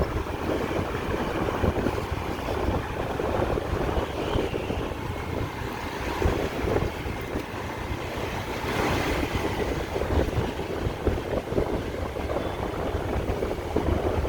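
Busy street traffic of motorbikes, cars and tuk-tuks: engines running and passing over steady road noise, with a brief hiss about nine seconds in.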